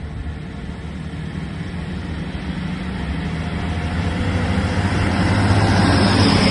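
Diesel train engines running with a steady low drone that grows louder as the train approaches.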